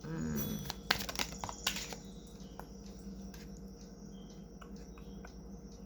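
Tarot cards being shuffled and handled: a quick flurry of sharp clicks and slaps about a second in, then a few scattered taps.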